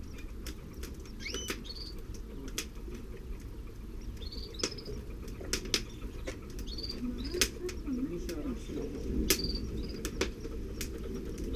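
Canary and her nestlings in the nest: scattered sharp clicks and rustles of the birds moving and pecking in the nest material, with short high chirps several times.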